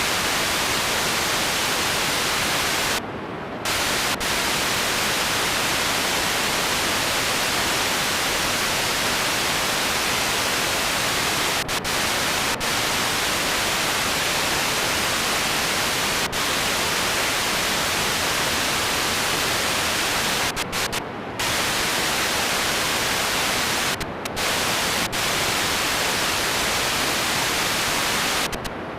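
Loud, steady static hiss with no music or voices, dipping briefly a few times.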